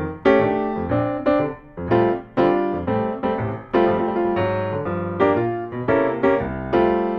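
Background piano music, a run of struck notes and chords that ring and fade.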